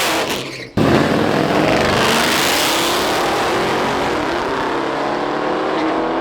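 Drag-racing car engines at full throttle, loud and steady. The sound drops out briefly just under a second in, then comes back, with the engine pitch climbing near the end.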